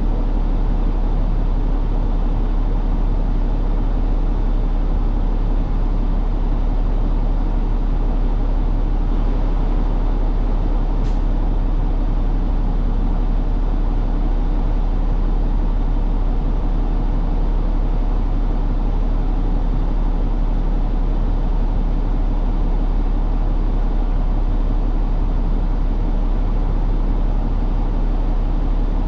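Steady engine and road rumble of a truck while driving, even throughout, with one brief faint tick about eleven seconds in.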